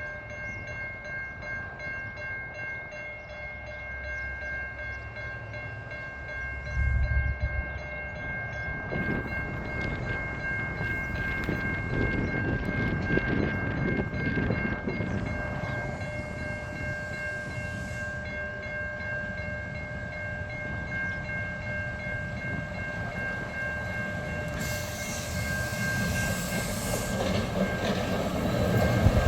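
SCT diesel-electric freight locomotives pulling a heavy train out of a crossing loop at low power. The engine rumble and wagon noise build steadily, with a steady high-pitched whine throughout and a low thud about seven seconds in.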